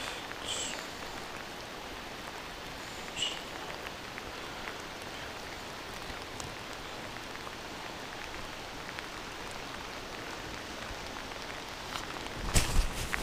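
Steady rain falling on the lake water, with two brief high chirps early on. Near the end a cluster of loud knocks and thuds breaks in over the rain.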